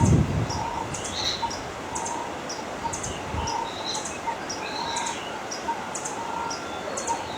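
Several birds calling at once: short high calls repeating about every half second, a lower short note repeating alongside, and a few scattered chirps. A brief low thump comes right at the start.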